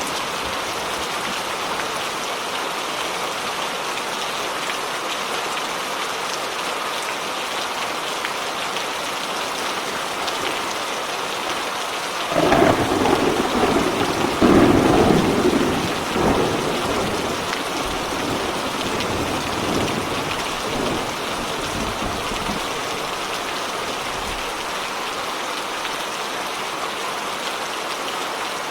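Steady rain, with a peal of thunder starting suddenly about halfway through and rumbling away over several seconds.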